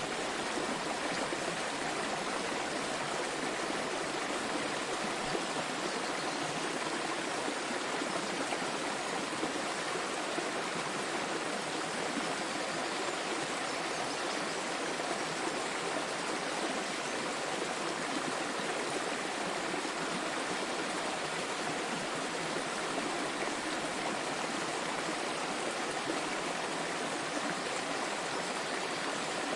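Small waterfall: water falling and rushing steadily in an even hiss, with little low rumble and no change throughout.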